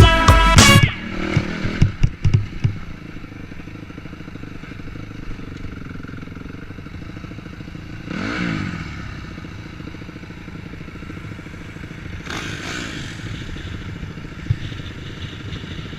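Music cuts off about a second in, followed by a few knocks and then a dirt bike engine running at low throttle, with a brief rev that rises and falls in pitch about halfway through and another swell near 12 seconds.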